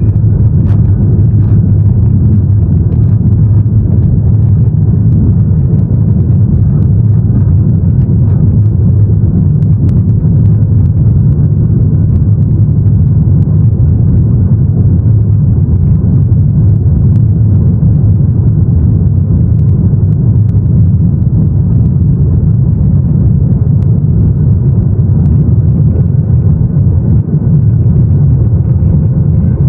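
Boeing 737-800 cabin noise heard from a passenger seat: a loud, steady low rumble of the CFM56-7B jet engines and airflow, holding an even level throughout.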